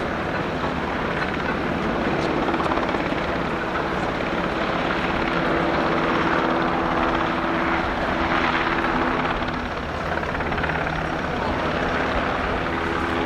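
UH-60J rescue helicopter in flight: steady rotor and twin-turbine noise with a constant low hum, swelling a little through the middle and easing briefly near the end.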